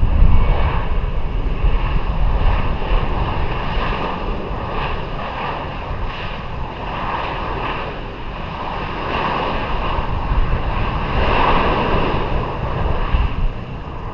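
Jet airliner engines running as a plane passes, a steady rumble with a faint whine above it, swelling a little near the end. Wind buffets the microphone.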